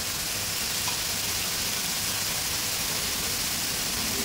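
Chopped onion, tomato, capsicum and ginger-garlic-green chilli paste sizzling steadily in hot oil in a large pan, being sautéed.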